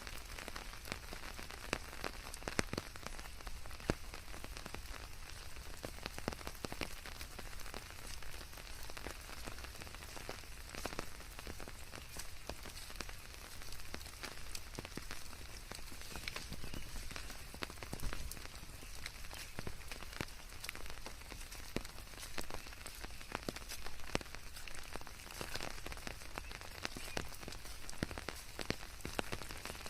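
Steady rain with many separate drop hits, blended with a steady white-noise hiss.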